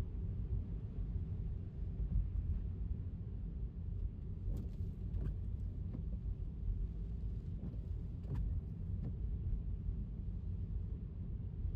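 Steady low rumble of an electric car's tyres on a wet road, with a few faint sharp clicks between about four and nine seconds in.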